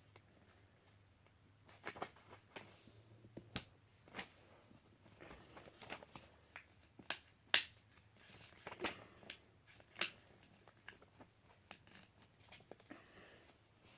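A sheet of paper being folded and creased by hand into a paper airplane: irregular crinkles, rustles and sharp creasing clicks.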